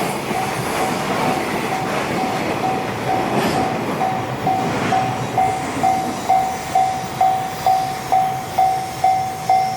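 Freight train running past on the rails with a steady rumble and clatter, while the level-crossing warning bell rings a little over twice a second. The train noise thins and the bell grows louder until, from about halfway, it is the loudest sound.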